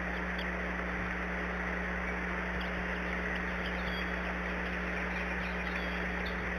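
Faint, short, high-pitched chirps from eagle chicks, coming every second or so and sometimes in quick pairs, over a steady hiss and low hum.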